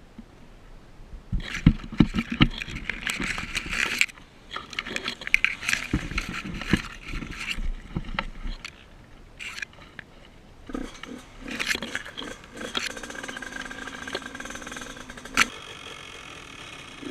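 Yamaha YZ85 two-stroke dirt bike engine running in uneven bursts with short pauses, then running more steadily from about eleven seconds in.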